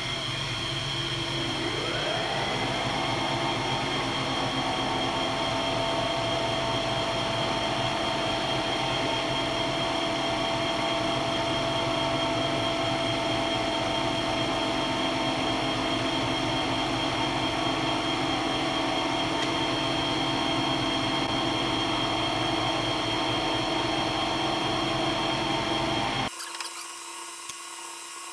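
Machine tool running steadily at light load while machining metal, its motor whine rising in pitch about two seconds in and then holding. Near the end the sound cuts off suddenly into a quieter, thinner hum.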